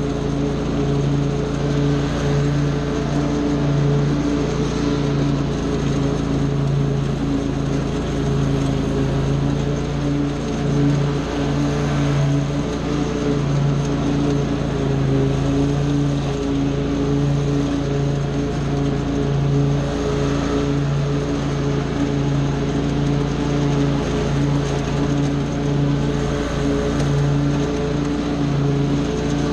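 Small gasoline engine of lawn equipment running steadily at a constant speed, with brief slight dips in its note.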